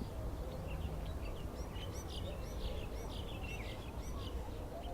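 Birds chirping: a cluster of short, high chirps in the middle, over a steady low rumble.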